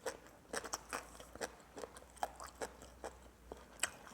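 A person biting and chewing crunchy food: a string of short, crisp crunches, about three a second.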